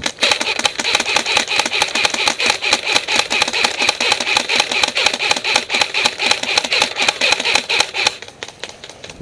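Airsoft electric gun firing one long full-auto burst: rapid, even clicks over a steady high motor-and-gearbox whine, cutting off sharply about eight seconds in.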